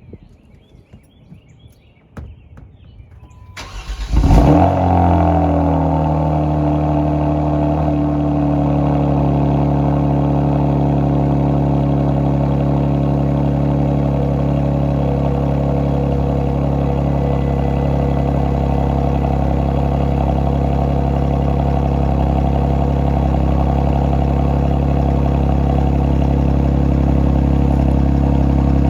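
2019 Kia Stinger with a Borla ATAK cat-back exhaust starting from cold. After a few quiet seconds the engine cranks and catches with a loud flare, then settles into a steady idle.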